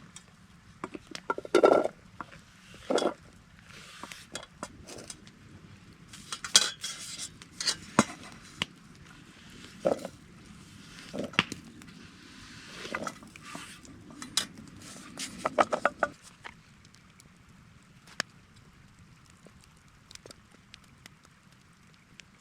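Metal cookware and utensils clinking and knocking while camp dinner is prepared. The knocks are irregular, some with a short ring, and they stop about sixteen seconds in.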